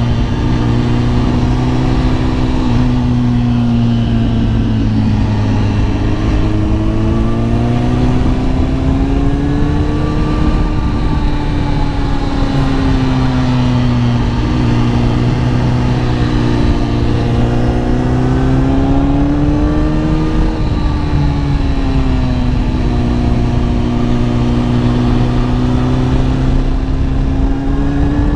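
Kawasaki ZX-10R inline-four sport-bike engine running under way, its pitch rising and falling gently several times as the throttle is eased on and off.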